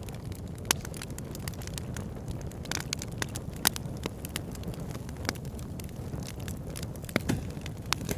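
Wood fire burning in a fireplace: a steady low rumble of flames with frequent sharp crackles and pops, a few louder snaps standing out.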